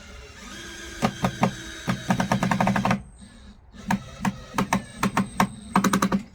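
A power tool driving screws into wood, in several short bursts of rapid rattling knocks with a short pause in the middle.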